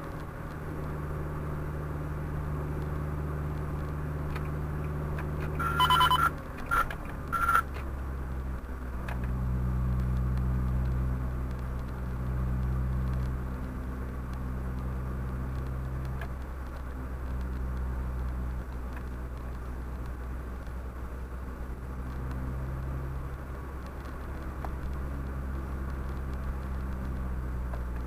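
Car cabin noise picked up by a dashcam while driving: a steady engine hum and road noise whose pitch shifts a few times. About six seconds in, three short electronic beeps sound in quick succession.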